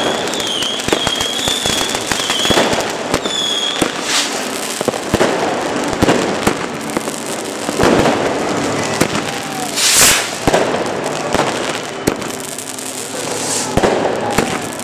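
Fireworks going off in quick succession: many sharp bangs over continuous crackling. A high, wavering whistle runs through the first few seconds, and a loud hissing rush comes about ten seconds in.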